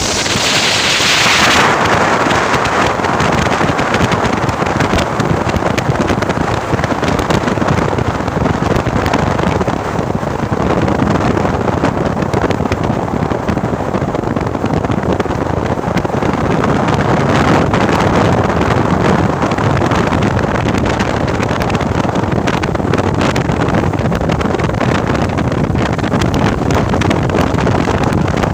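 A truck loaded with coconuts driving on the road: steady engine and road noise, with wind buffeting the microphone.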